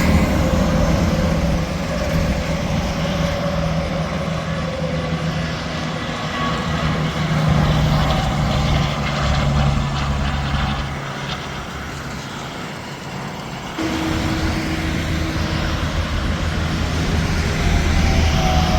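Semi-trucks and other traffic passing on an interstate highway: steady diesel engine drone over tyre and road noise. One engine note slides slowly down in pitch over the first few seconds as a truck goes by, and the sound changes abruptly about fourteen seconds in.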